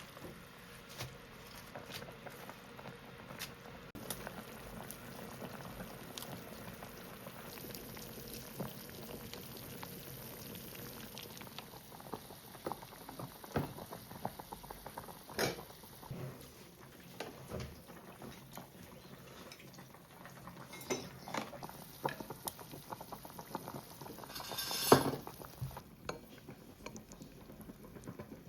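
Hot pot broth bubbling steadily, with frequent small clinks of utensils against the pot and bowls and one louder clatter near the end.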